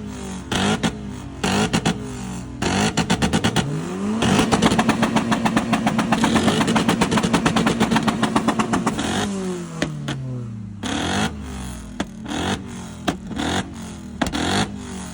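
A performance car engine revving: the pitch climbs about four seconds in, holds high for several seconds, then falls away. Rapid trains of sharp cracks run alongside it, thickest early and late.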